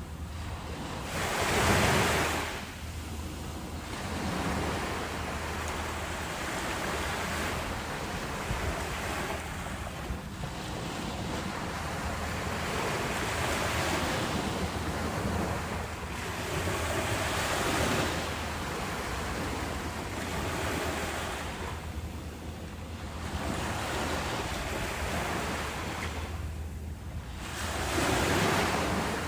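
Ocean waves breaking and washing in, a steady rush of surf that swells and ebbs every few seconds, with the largest waves about two seconds in and again near the end.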